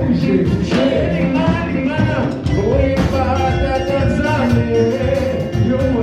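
Live worship band playing, with bass and drums under voices singing.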